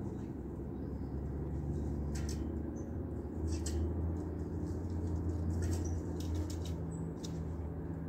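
A few short, high bird chirps and scattered sharp clicks over a steady low rumble that swells in the middle.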